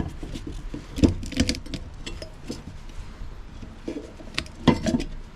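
Knocks, clanks and scraping of metal parts being pulled out of a cut-open refrigerator compressor, with the loudest knocks about a second in and near the end.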